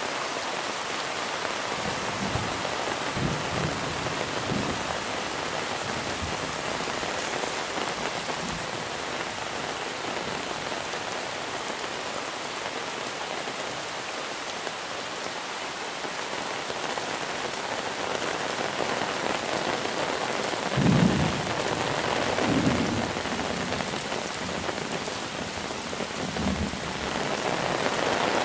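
Steady heavy monsoon rain pattering down, with a few brief low thumps, the loudest about 21 seconds in.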